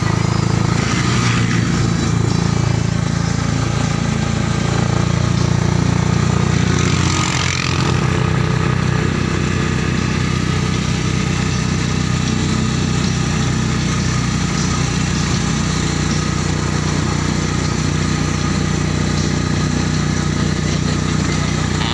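Motorcycle engine of a passenger tricycle running steadily under way, heard from inside the sidecar, its note changing about seven or eight seconds in.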